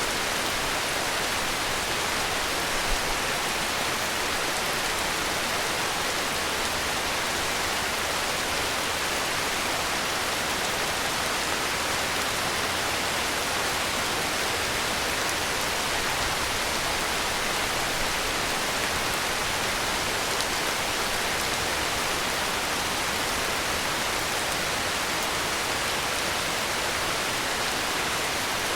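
Heavy rain falling steadily: an even, unbroken hiss of rainfall with no breaks or swells.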